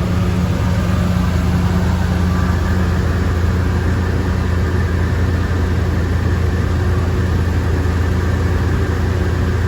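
1978 Chevrolet Corvette's 350 small-block V8 idling steadily on a cold start.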